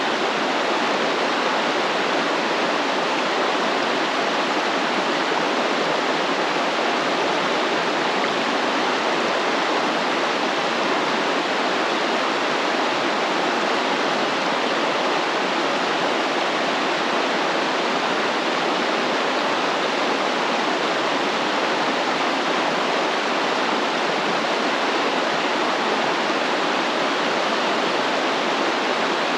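Stream water flowing steadily, a constant even rushing.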